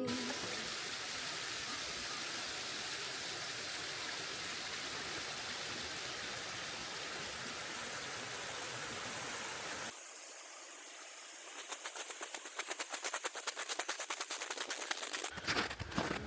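Steady rushing of a mountain stream and waterfall. About ten seconds in it cuts to a thinner, quieter sound with a fast run of clicks.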